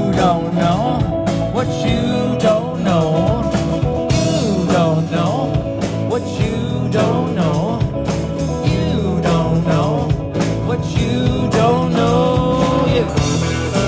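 Live band playing a blues-rock tune: a lead line of bending notes over a steady drum beat and bass.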